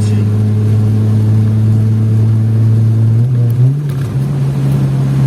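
Chevrolet Vectra engine pulling in fifth gear under acceleration, its drone steady and then stepping up in pitch about three and a half seconds in. The engine runs without the misfire it had, a fault the owner traced to a plug.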